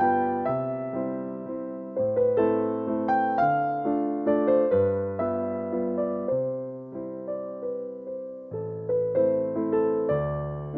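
Background music: solo piano playing a slow waltz in A minor, one note after another ringing and dying away.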